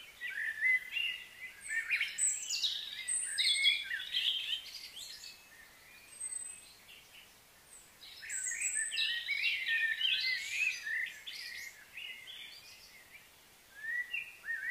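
Small birds chirping and calling in quick, overlapping bursts: a busy spell in the first few seconds, another about eight seconds in, and more near the end, with quieter gaps between.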